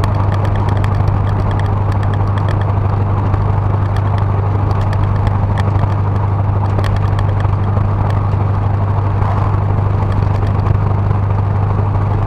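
A 1977 Ford Ranchero GT's 351 Windsor V8 running steadily on the road, with its freshly rebuilt carburetor, as a constant hum and road noise.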